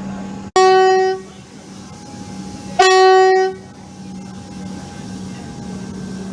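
Train horn sounding two short blasts on one steady pitch, the second about two seconds after the first, over a steady low hum.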